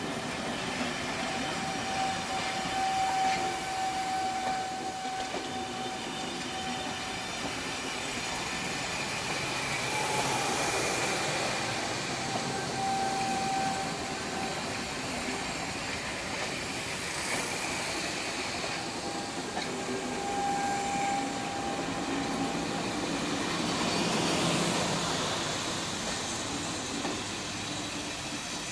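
Steam-hauled train rolling slowly into a station, wheels running on the rails. A thin wheel squeal comes and goes several times, and there are three broad swells of hiss-like noise.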